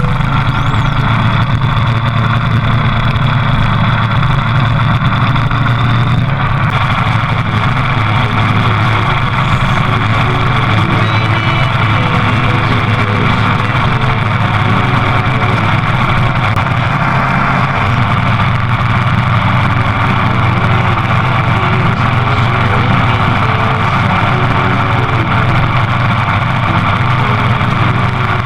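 Motorcycle engine running at a steady, even pace while riding.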